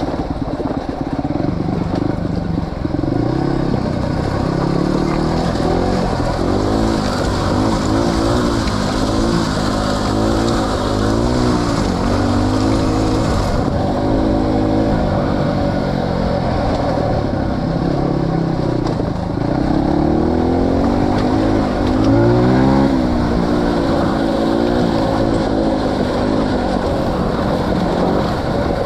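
Off-road motorcycle engine revving up and down again and again, its pitch rising and falling with the throttle, over a steady rumble.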